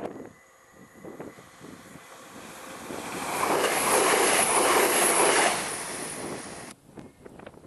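Train passing at speed: a rushing noise that swells, peaks for a couple of seconds, then fades, and cuts off suddenly near the end.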